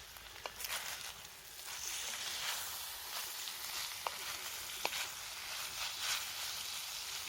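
Bacon sizzling in a frying pan, a steady hiss with scattered sharp pops, growing somewhat louder about two seconds in.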